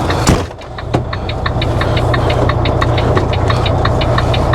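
A thump about a third of a second in, then a semi-truck's diesel engine idling steadily, with a fast, regular ticking over the low drone.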